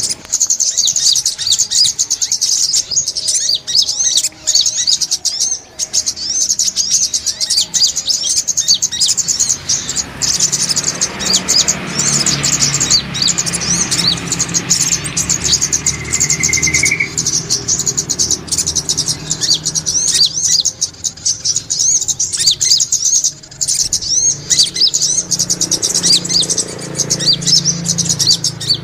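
Brown-throated sunbirds (sogok ontong) twittering without pause in rapid, high-pitched chirps and trills.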